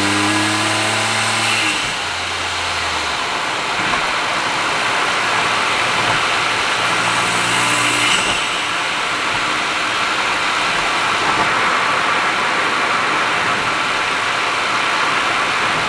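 Honda S660's turbocharged 658 cc three-cylinder engine running through an HKS exhaust, pulling with a clear note, then lifting off about a second and a half in. After that the car cruises with steady road and tyre noise on top, and the engine note comes up again briefly around seven seconds in.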